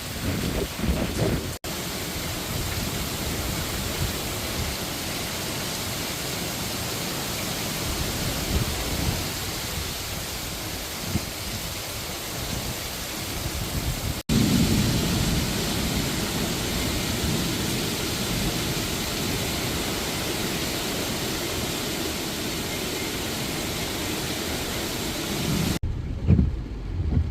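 Heavy rain and wind in a strong thunderstorm: a steady, loud hiss, broken twice by sudden cuts. Near the end the hiss drops away and an uneven low rumbling takes over.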